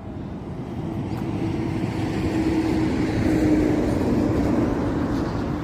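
A road vehicle driving past, its engine and tyre noise swelling as it approaches and then holding, with a faint steady hum through it.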